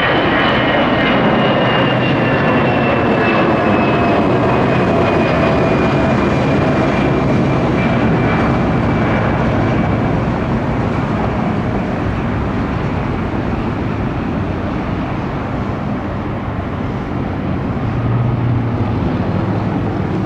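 Jet airliner's engines at takeoff power as it passes, a loud roar with a whine that slides down in pitch over the first ten seconds, then the roar easing off with a brief low swell near the end.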